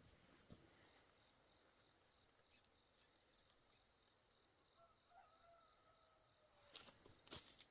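Near silence: faint rural ambience with a thin, high, steady tone, a faint drawn-out call about five seconds in, and soft clicks and rustling near the end.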